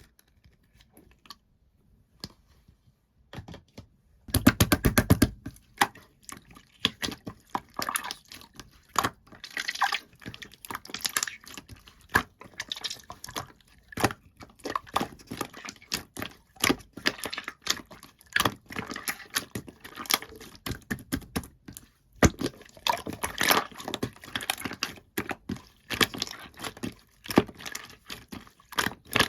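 Slime being worked by hand: an irregular, dense run of wet clicks and pops as it is squeezed and pressed, starting after a few seconds of near quiet.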